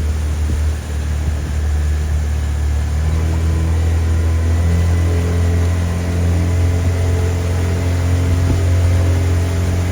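Boat engine running at a steady speed, a deep, even drone.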